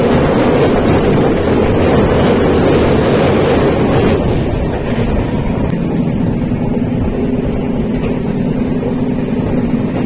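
Passenger train running along the rails, a steady rumble of wheels and carriage. About four seconds in the sound turns duller, leaving a steady low hum.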